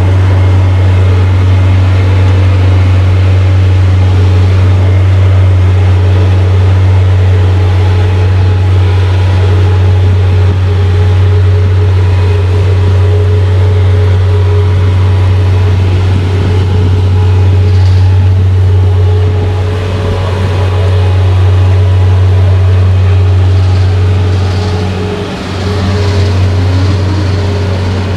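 Truck engine running with a loud, steady low drone, dipping briefly near the end and then picking up with a faint rising tone.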